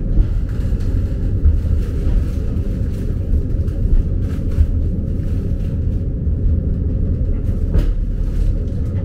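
Hakone Tozan Railway electric train running along the track, heard from inside the front car as a steady low rumble, with a few faint clicks.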